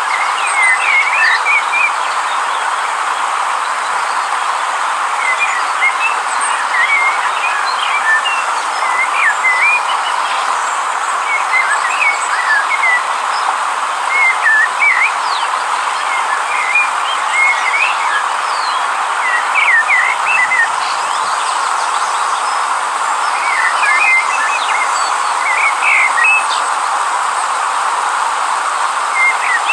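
A river running with a steady rush of water, with birds chirping in short twittering phrases every couple of seconds over it.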